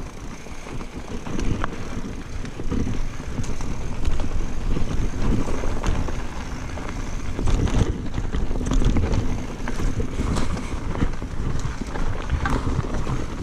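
Mountain bike rolling fast down a dusty dirt singletrack: tyres rumbling over the ground, with scattered clicks and rattles from the bike and wind buffeting the microphone.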